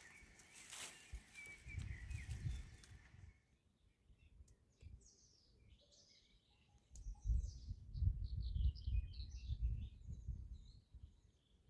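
Small birds chirping, many short calls from about four seconds in. A hiss with a few clicks fills the first three seconds, and low rumbles come around two seconds and again from about seven to ten seconds, louder than the birds.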